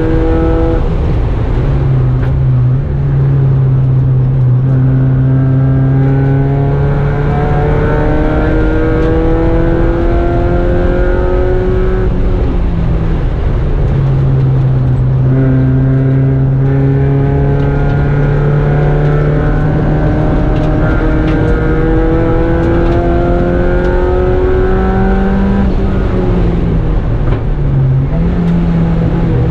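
Mazda Miata race car's four-cylinder engine under hard throttle, heard inside the stripped cabin. Its pitch climbs slowly in long pulls, drops sharply about twelve seconds in, climbs again, and dips near the end. Steady wind and road noise run underneath.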